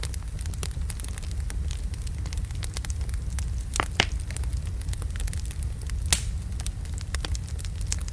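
Wood logs burning in a fireplace: a steady low rumble of the flames with continual small crackles, and a few louder sharp pops, two close together about four seconds in and another about two seconds later.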